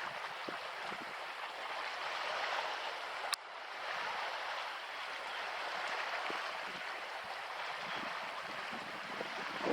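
Steady hiss of moving water washing along the shore, with a sharp click about three and a half seconds in where the sound briefly drops.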